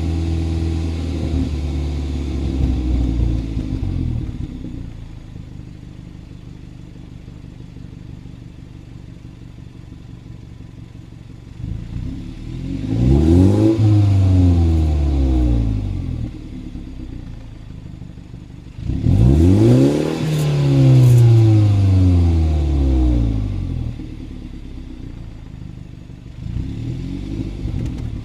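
BMW 320i's B48 two-litre turbocharged four-cylinder engine idling and revved twice, the pitch rising then falling each time, the second rev held longer, with a start of another rev near the end. A rattle from the exhaust system is heard with the revs.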